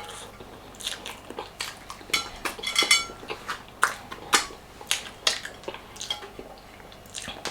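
Metal cutlery tapping and scraping against a plate in irregular clicks, with a ringing clink about two to three seconds in.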